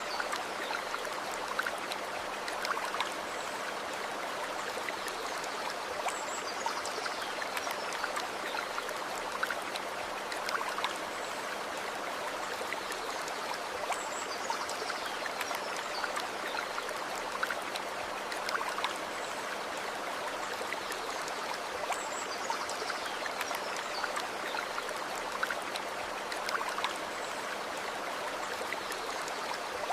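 A stream of water running steadily, with small splashes and trickles through it. Faint high falling notes recur about every eight seconds over the water.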